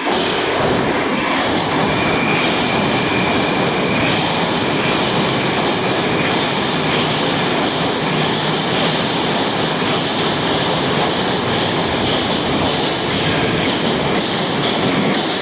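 Moscow Metro train running through the station, a loud steady rumble of wheels on rail with a light repeating click about twice a second and a brief high squeal of the wheels early on.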